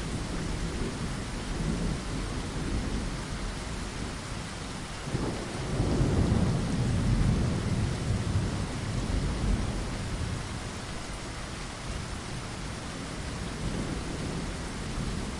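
Steady rain pattering against a window, with a low rumble of thunder that swells about five seconds in and dies away over the next few seconds.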